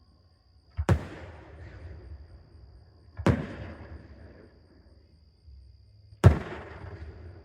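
Aerial fireworks shells bursting: three loud booms a few seconds apart, each trailing off in an echoing rumble.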